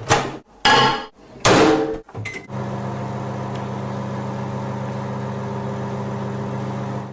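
Three loud knocks in the first two seconds and a short beep, then a microwave oven starting and running with a steady hum.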